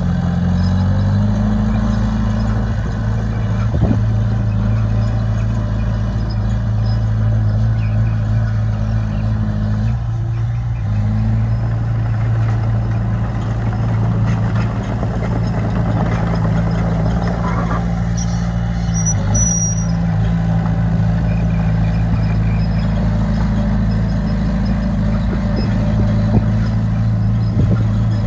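Diesel engine of heavy earthmoving machinery running steadily, its pitch rising and falling a few times as the throttle changes.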